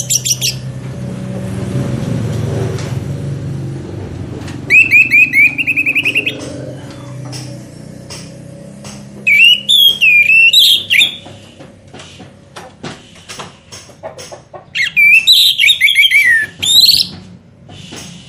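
Songbird singing three loud phrases of rapid whistled notes, the first a fast string of repeated chips, the others warbling and sliding trills that fall in pitch, with pauses between them.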